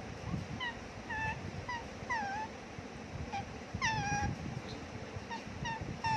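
A parrot giving a string of short calls, about a dozen quick bent notes, with two longer ones about two and four seconds in.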